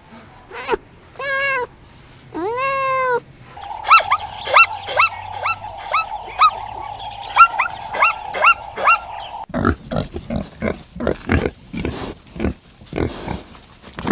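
Animal calls from different animals in turn. First come three drawn-out, arching calls. Then a run of quick, short rising chirps plays over a steady hiss, and after that a fast series of rough grunting pulses.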